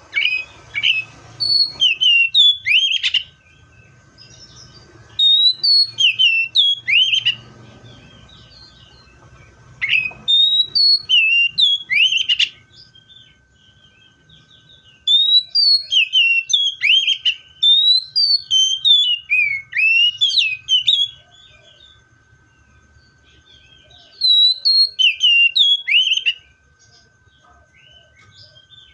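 Magpie-robin singing: loud phrases of sliding, whistled notes delivered in bursts of a few seconds, with short pauses between them. A faint steady tone sits underneath.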